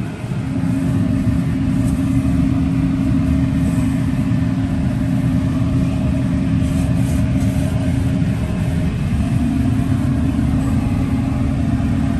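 Steady drone of a running motor, with a constant hum that comes up about half a second in.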